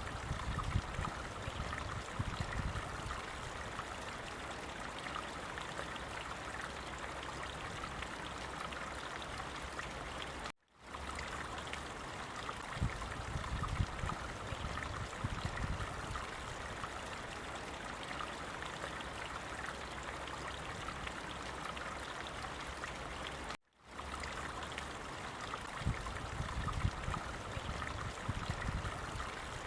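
Flowing stream water, a steady rush with low swells that come back about every 13 seconds. The sound cuts out for a split second twice, about 11 and 24 seconds in.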